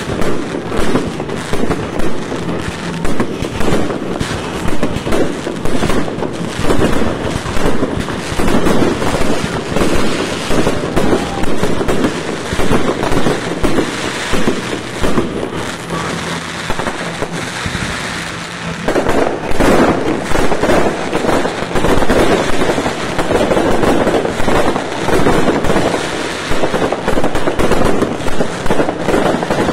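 Fireworks display: a continuous barrage of aerial shells bursting in quick succession, several bangs a second. The barrage grows heavier about two-thirds of the way through.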